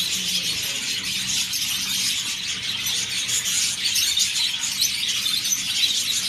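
Many small birds in an aviary chattering and squealing at once: a dense, unbroken wash of fast, high-pitched chirps.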